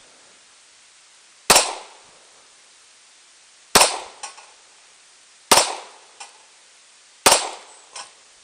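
Four pistol shots fired one at a time, about two seconds apart, each sharp crack dying away quickly, with a fainter bang following three of them about half a second later.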